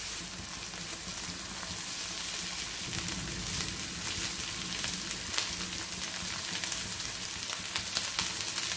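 Mushrooms and vegetables sizzling steadily in a wok over a high flame. A spatula stirs and scrapes them, making faint scattered clicks.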